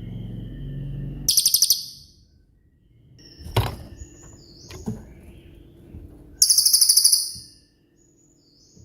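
Cililin songbird singing its loud 'tembakan' bursts: two fast, high rattling trills about five seconds apart, with short whistled notes between them. A sharp knock sounds about three and a half seconds in.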